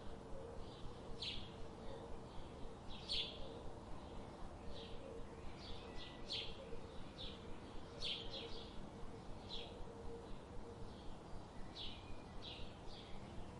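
Birds chirping: short, high chirps repeat every second or so over a steady background hiss.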